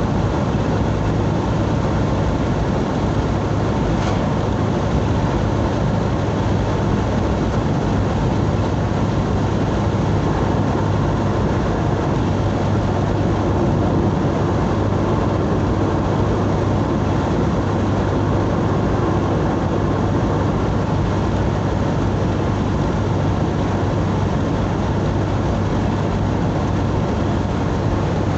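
A vehicle driving steadily along a highway: continuous engine and road noise with a steady low hum, unchanging throughout.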